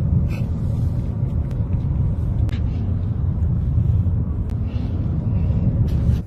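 Car driving, with a loud, steady low rumble of engine and road noise and a few faint clicks and knocks; the rumble drops away sharply near the end.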